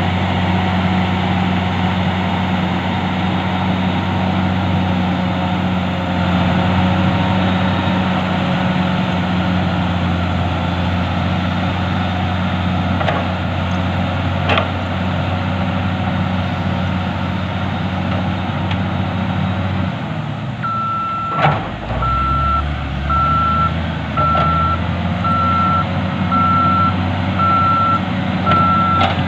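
Diesel engine of heavy earthmoving machinery running steadily. About two-thirds of the way through, the engine note changes with a knock, and a reversing alarm starts beeping about once a second as a machine backs up.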